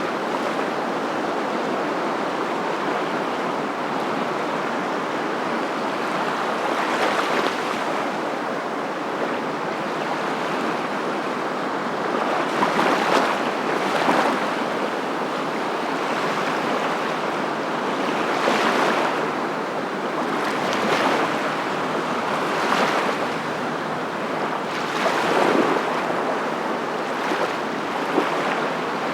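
Steady rushing noise that swells and fades every few seconds, with no pitch or rhythm of a machine.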